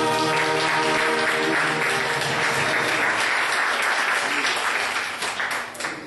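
Congregation applauding, a dense steady clapping that fades away near the end, while the last held chord of the song dies out in the first second and a half.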